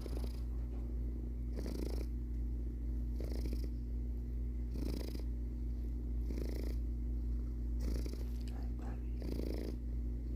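Domestic cat purring close up: a steady low rumble that swells about every one and a half seconds.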